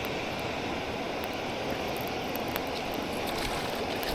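Steady rushing of river water pouring over and below a dam spillway, an even hiss-like wash with no change in level.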